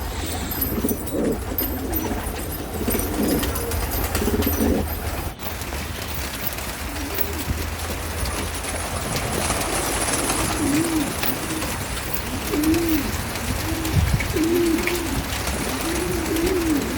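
Pigeons cooing: repeated low, rising-and-falling coos, several birds calling over one another at first, then a run of separate coos through the second half.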